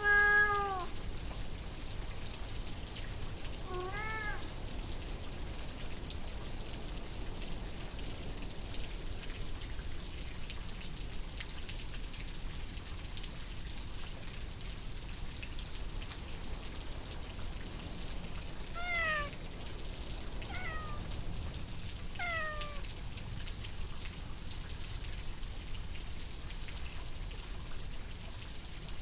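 Steady rain with a domestic cat meowing five short times: once right at the start, again about four seconds in, and three more close together about two-thirds of the way through.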